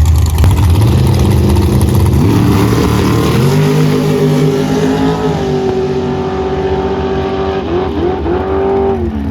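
Drag-race car's engine pulling hard down the track: a low rumble, then revs climbing about two seconds in, a step up, a long steady high-revving stretch, and a drop in pitch near the end.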